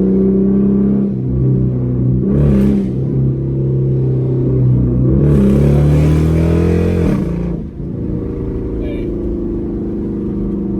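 C7 Corvette V8 running through a newly fitted H-pipe exhaust. It pulls harder with a deeper note from about a second in, then eases off with a brief dip in loudness about three-quarters of the way through.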